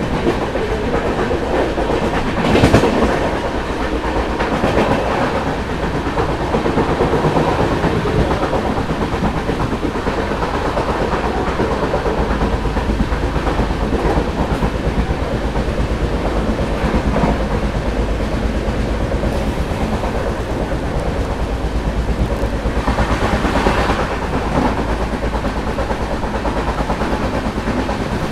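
Express passenger train running along the track: a steady rumble of wheels on rails with clickety-clack over the rail joints. A brief louder rush comes about two and a half seconds in, and another near the end.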